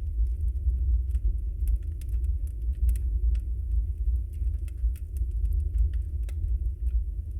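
Log fire burning in a fireplace: a steady low rumble with many scattered faint crackles and small pops.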